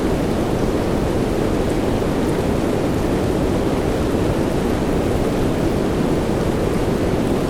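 Steady soft rain blended with deep, even white noise, its energy low in pitch and unchanging.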